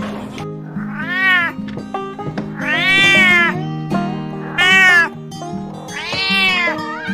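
Domestic cat meowing four times, each meow rising and then falling in pitch, the second one longest, over background music.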